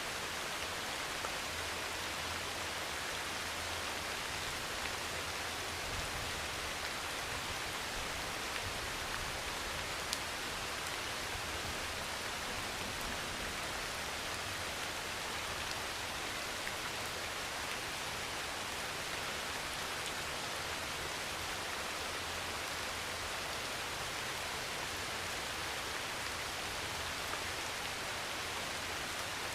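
Heavy rain pouring steadily on a metal roof: a dense, even hiss with scattered individual drop ticks.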